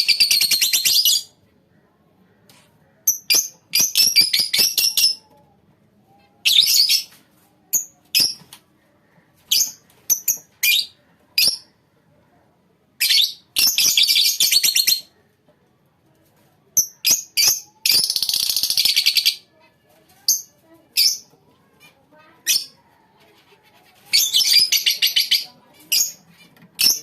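Lovebirds chattering in shrill, high-pitched bursts of rapid notes, each a second or two long, with single sharp chirps in the quiet gaps between.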